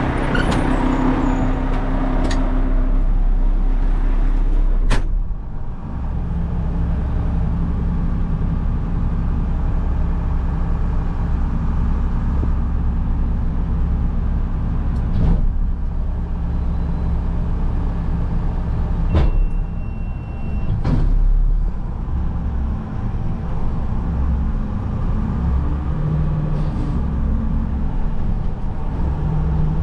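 Front-load garbage truck's diesel engine running steadily, working harder from about six seconds in as the hydraulic packer compacts the load in the body, with a few sharp clanks along the way.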